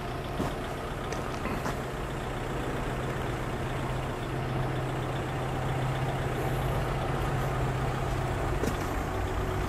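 A car engine idling steadily close by, a low even hum that grows slightly louder partway through.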